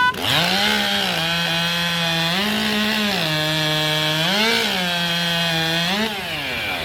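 Racing chainsaw running at full throttle through a log. Its pitch sags three times as the chain bites into the wood and climbs each time it cuts through, then falls away near the end as the throttle is let off.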